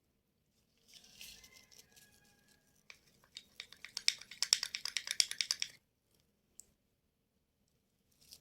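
A spoon scraping and clicking fast against a small dish, roughly ten strokes a second for a few seconds, after a softer rustle; a homemade aspirin-and-vinegar skin cream mixture being worked together.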